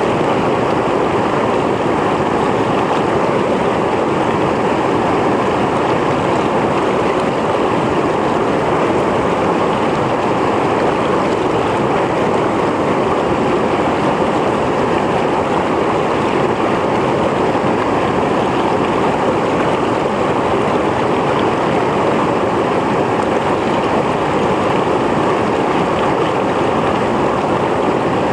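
Mountain stream flowing over rocks: a steady rush of water with no breaks or changes.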